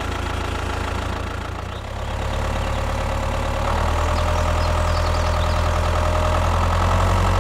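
A small motor running steadily with a low hum. It steps up about two seconds in and again near four seconds, where a steady whine joins and it gets a little louder.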